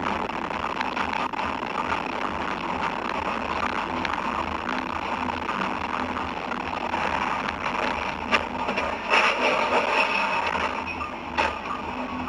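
Steady road and engine noise from a moving car, with a couple of brief sharp knocks partway through.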